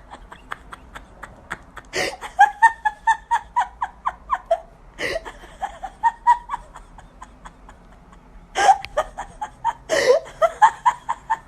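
A person laughing in three bouts of quick, pitched pulses, the first starting about two seconds in and the last near the end.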